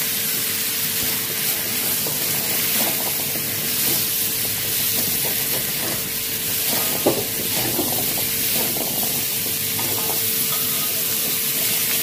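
Chicken wings and pumpkin pieces sizzling in hot oil in a metal wok, stirred with a metal spatula that scrapes the pan. There is one sharper knock of the spatula about seven seconds in.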